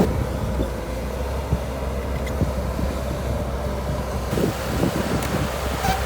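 Shantui DH17C2 crawler bulldozer at work: a steady low engine rumble with scattered short crunches and knocks.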